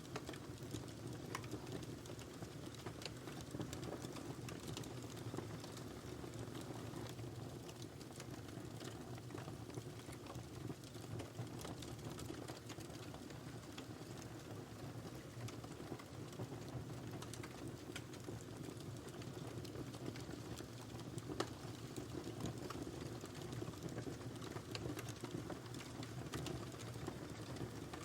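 Wood fire burning in a fireplace: a steady low rumble of the flames with constant small irregular crackles and an occasional louder pop, the loudest about 21 seconds in.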